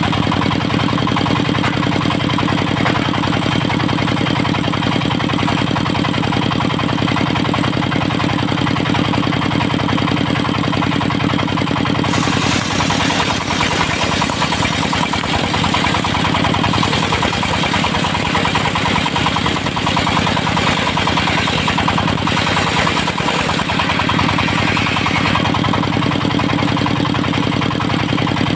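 Dongfeng diesel engine running steadily while it drives a circular sawmill blade. About twelve seconds in, a brighter, hissier sound joins the engine note.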